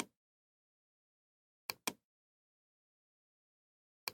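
Computer mouse clicking: a quick double click about two seconds in, with single clicks at the very start and end.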